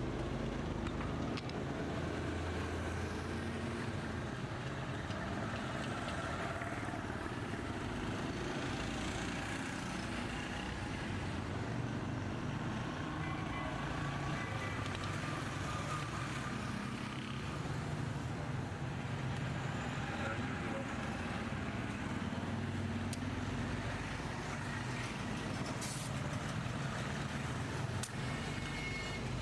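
Steady road traffic: motor vehicle engines running, with faint voices in the background.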